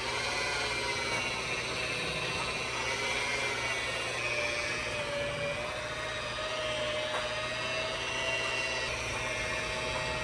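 Electric polisher running steadily with a yellow polishing pad on a headlight lens, a constant motor whine that drifts slightly in pitch; the final polishing step after wet sanding and compounding.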